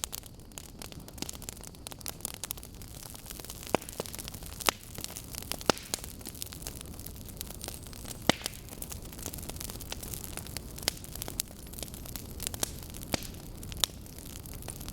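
Wood fire burning, logs crackling with irregular sharp pops over a steady low rumble of the flames.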